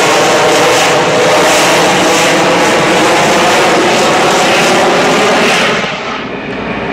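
Loud, steady roar of a C-130 Hercules transport's four turboprop engines at full power, with a droning propeller tone, during a rocket-assisted takeoff. It drops off suddenly near the end.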